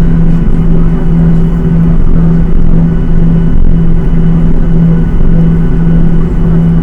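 Boeing 737-800's CFM56-7B jet engines heard from inside the cabin: a loud, steady rumble with a low droning hum that swells and fades in a slow beat.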